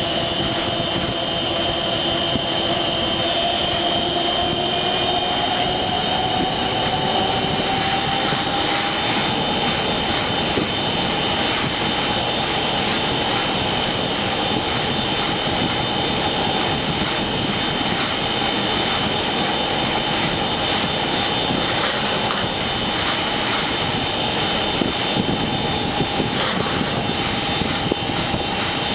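Large machine (unit No. 1) running under rising load, with a steady rushing noise and high fixed tones. A whine rises in pitch over the first several seconds, then holds steady. This is the noise the uploader reports as abnormal when the unit runs between 30% and 60% load.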